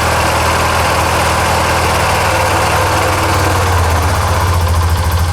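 2007 Honda Rancher TRX400FGA's single-cylinder four-stroke engine idling just after a cold start, having sat unrun for almost a year. About three seconds in, its note settles lower into a stronger, more even beat.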